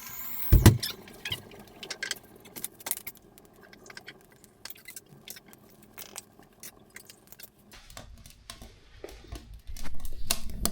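Kindling and paper catching in a fireplace: scattered sharp crackles and clicks, after a single loud knock about half a second in. A low rumble comes in near the end.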